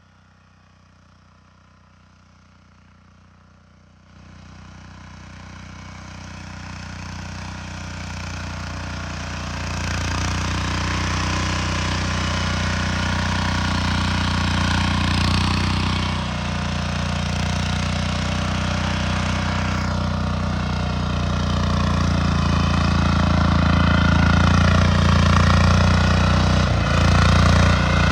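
Compact tractor engine running steadily; faint at first, it grows louder from about four seconds in and holds loud from about ten seconds in.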